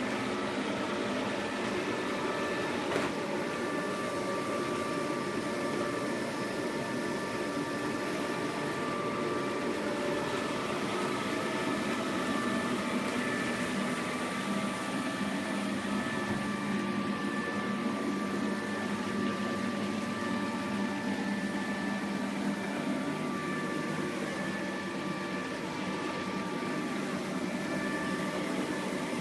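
iClebo Omega robot vacuum running: a steady motor and suction hum with a few steady whining tones, and a single click about three seconds in.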